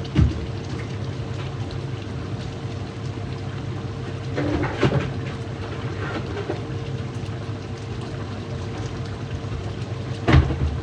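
A steady low hum with a faint constant tone through it. Short knocks break in just after the start, twice around four to five seconds in, and once near the end.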